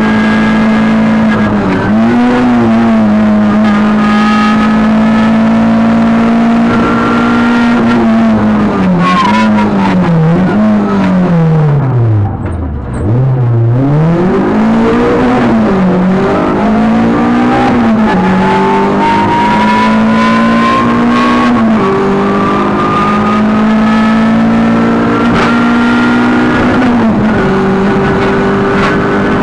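Renault Clio rally car's engine heard from inside the cabin, driven hard. The engine mostly holds a high, steady pitch, with the revs dipping and recovering several times and falling to a low rumble about halfway before climbing back. A thinner whine rises steadily in pitch through the second half.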